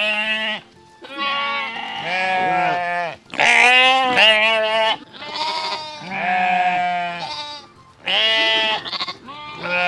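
Sheep bleating: about half a dozen long baas, one after another with short pauses between.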